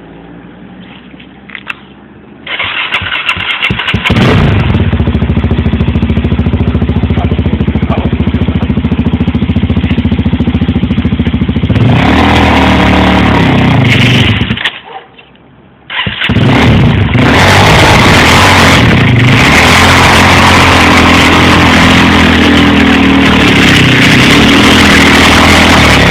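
A small single-cylinder engine starting up, running loud and revving up and down, cutting out briefly about halfway through, then starting again and running loud with more revving to the end.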